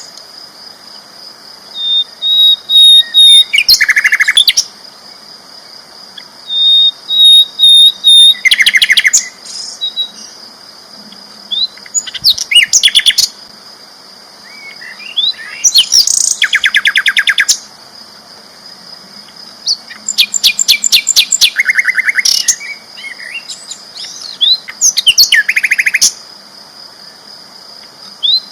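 A sikatan londo flycatcher singing loudly: six bursts of rapid, repeated trilled notes, some opening with a thin held whistle, coming every few seconds. A faint steady high tone runs under the song.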